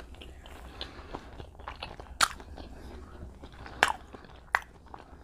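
Close-up chewing of a bite of fried chicken and waffle, with wet mouth noises and three sharp clicks, about two, four and four and a half seconds in.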